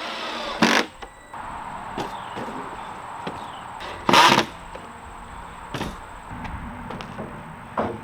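Wooden rack parts being handled and knocked together: two loud sharp knocks, one about a second in and one about four seconds in, with smaller knocks later, over a steady hiss.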